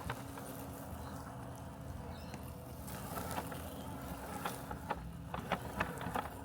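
Robotic lawn mower running with a steady low mechanical hum, with scattered light clicks and ticks that come more often in the second half.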